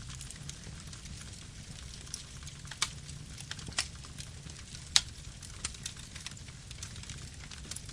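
Campfire wood burning: a steady low rumble with scattered sharp crackles and pops, the loudest about five seconds in.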